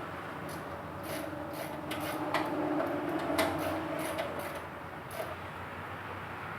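Scraping and rubbing under a truck, with scattered clicks, louder in the middle where a drawn-out squeaky scrape comes through, from hand work at the underbody where the lower splash shield is being taken off.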